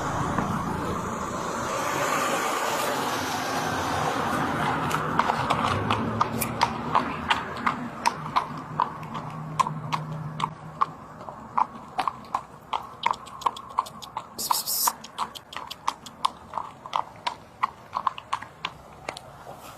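A horse's hooves clip-clopping at a walk, a steady run of sharp hoofbeats a few per second that slowly grow fainter. There is a brief hiss about two-thirds of the way through.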